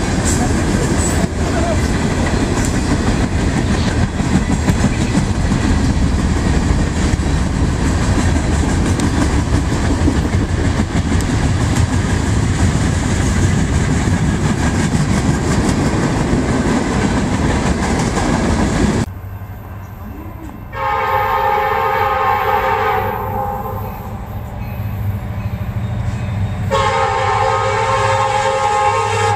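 A freight train rolling past close by: a steady rumble and clatter of wheels and cars. After a cut, an approaching train sounds its air horn as a several-note chord in two long blasts.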